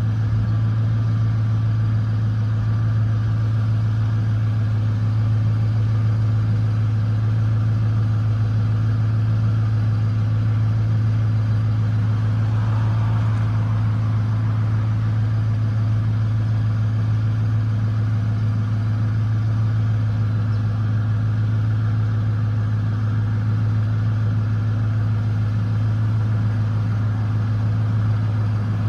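1999 Ford F-150 engine with 282,000 miles idling steadily, a low even hum that holds the same pitch throughout.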